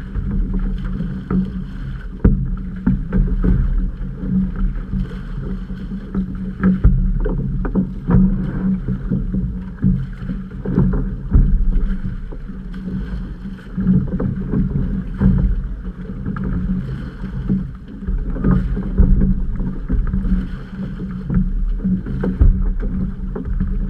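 Outrigger canoe under way: water rushing past the hull, with frequent irregular paddle splashes and knocks over a steady low hum.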